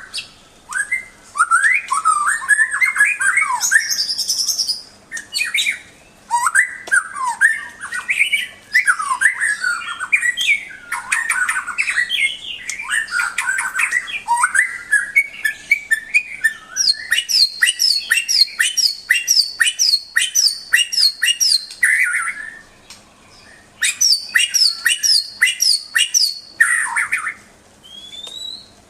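White-rumped shama (murai batu) singing: a string of varied whistled phrases broken by short pauses, and, past the middle, fast runs of sharp repeated notes.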